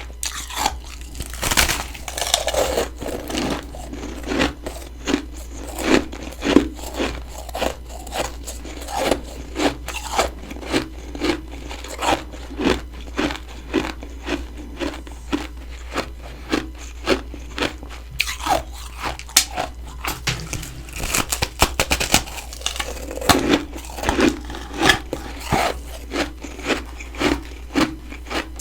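Freezer frost being chewed close to the microphone: a steady run of crisp crunches, about two a second, with a quicker flurry of crunching about three-quarters of the way through.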